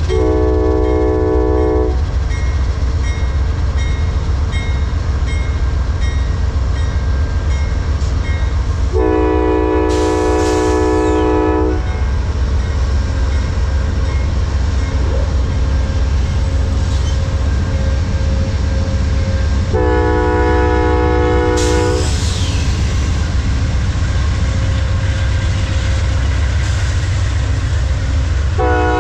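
Amtrak passenger diesel locomotive sounding its multi-chime horn in long blasts, roughly ten seconds apart, over the steady low rumble of its engine. Through the first third a bell rings steadily.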